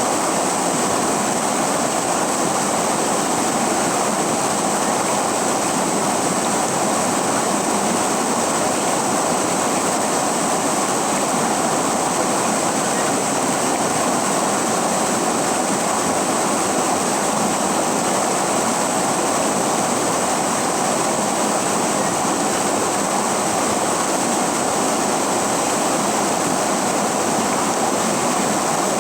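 River water rushing steadily, an even unbroken sound of flowing water.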